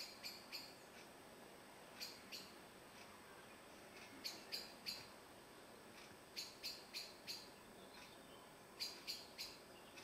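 Spotted flycatcher giving short, sharp, high call notes in quick clusters of two to four, a new cluster about every two seconds.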